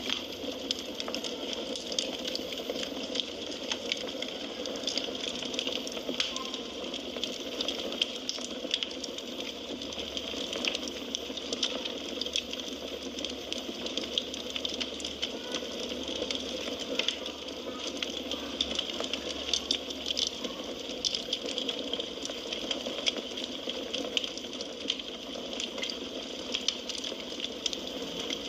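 Firewood burning in a fireplace, crackling steadily with many small, sharp snaps and pops over a low hiss of flames.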